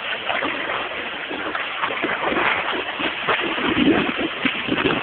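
Floodwater splashing and rushing: a steady rough wash broken by irregular splashes.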